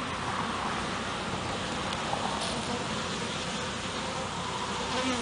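Honeybees buzzing around an opened hive: a steady, even hum-and-hiss with no breaks.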